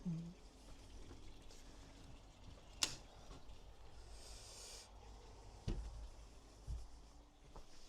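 Quiet workshop handling noises: a single sharp click about three seconds in, a short hiss a second later, then two dull thumps.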